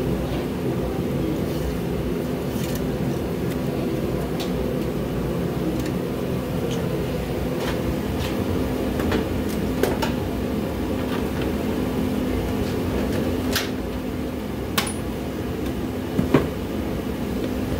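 Portable garage heater ("torch") running with a steady drone and hum. A few sharp clicks and knocks come through it, the loudest near the end.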